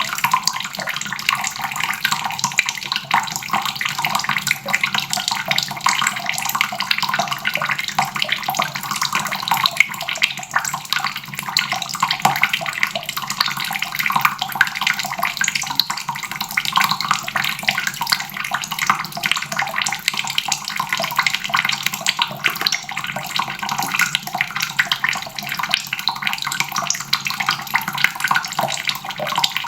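Water faucet running steadily, the stream splashing into a basin without a break.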